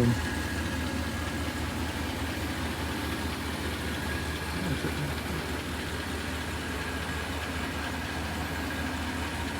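A steady, low engine hum under an even background hiss, like an engine idling.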